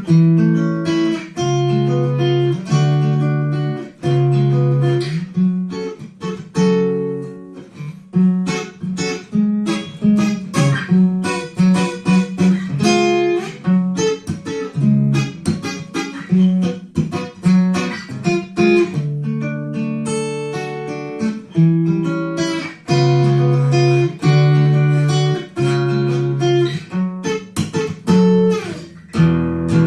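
Yamaha FGX730 steel-string acoustic guitar being played, a continuous run of plucked chords and melody notes over ringing bass notes.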